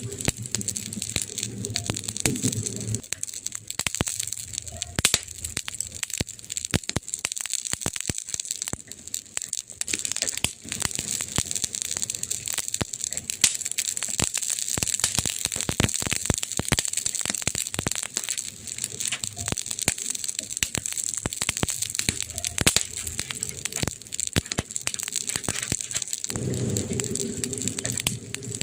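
Wood fire crackling, with dense irregular pops and snaps over a steady hiss. A low rumble fades out about three seconds in and comes back near the end.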